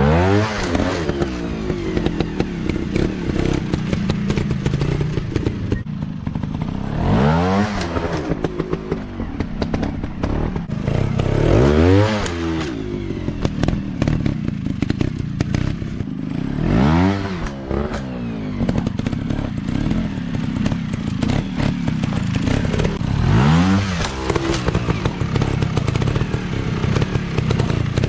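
Off-road dirt bike engines running at low speed, with the throttle blipped so the engine note rises and falls about every five seconds, five times in all, over clattering and knocking.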